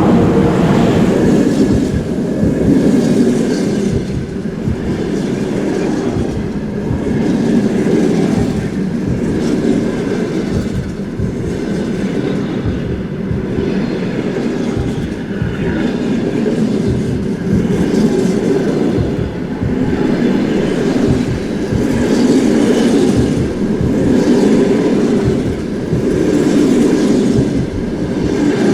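Passenger train hauled by a ChS7 electric locomotive passing close by: a steady heavy rumble of carriage wheels on the rails, with clickety-clack over the rail joints and the loudness swelling every few seconds as each car goes past.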